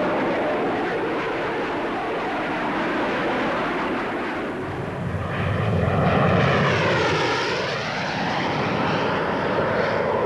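Jet engine of a Hawker Hunter two-seater trainer (a single Rolls-Royce Avon turbojet) as the aircraft flies past. A steady roar swells to its loudest about halfway through, with a swishing sweep that falls and rises again as the aircraft passes.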